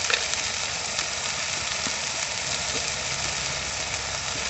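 Masala paste with turmeric sizzling in hot mustard oil in an iron kadhai, a steady frying hiss with a few small pops.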